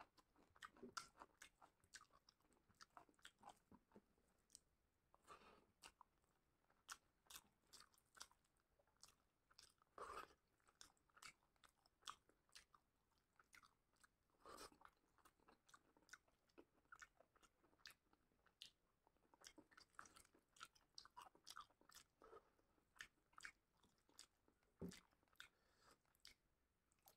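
Faint close-up eating sounds: a person chewing chicken curry and rice, with many quick wet clicks and smacks of the mouth.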